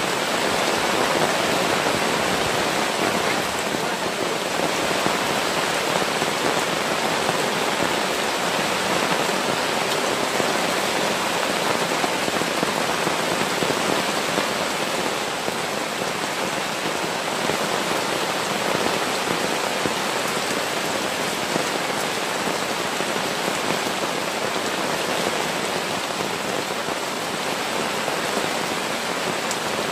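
Heavy rain falling steadily, an even, unbroken hiss of downpour with no thunder.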